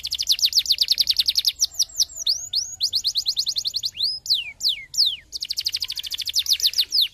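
Domestic canary singing: fast trills of downward-sweeping notes, about ten a second, broken by slower, separate whistled sweeps, then a second fast trill near the end.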